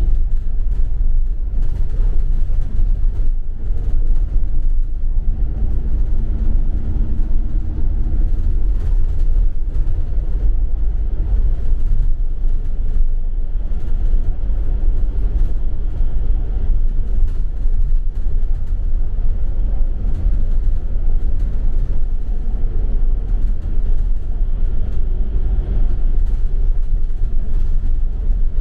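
Inside a double-decker city bus on the move: a steady low engine and road rumble, with a faint engine hum coming and going.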